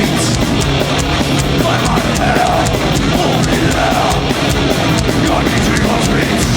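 A heavy metal band playing loud and live: distorted guitars and fast drumming with rapid, even cymbal hits.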